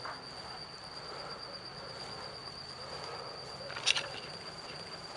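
Crickets trilling in one steady high, thin note. A single short, sharp snap or click cuts in about four seconds in.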